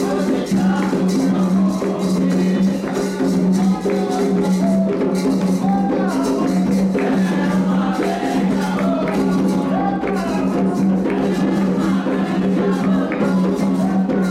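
Candomblé ritual music: hand drums, which in Candomblé are atabaques, beat a steady, dense rhythm with a shaken rattle, while voices sing a song for the orixá Oxum.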